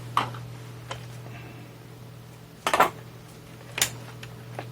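Light clinks and knocks of small metal tools and parts being handled and set down on a workbench, five or six separate hits with the loudest cluster a little past the middle, over a steady low hum.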